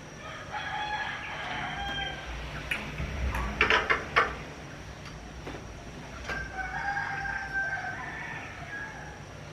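A rooster crowing twice, each crow a long drawn-out call of a second or two. Between the crows, a short cluster of sharp clicks or knocks about three and a half seconds in is the loudest sound.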